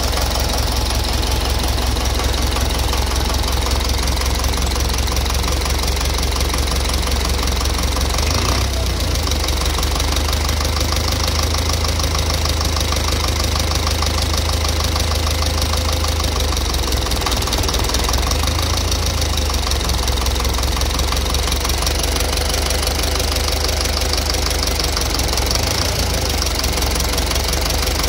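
Engine idling with a rapid, even knock coming from inside the engine.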